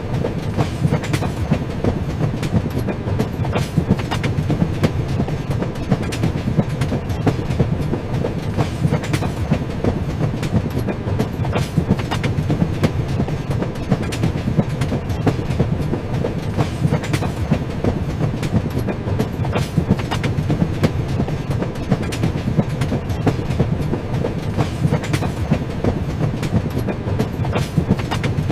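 A train running along the tracks: a steady low rumble with frequent short clicks of the wheels passing over rail joints.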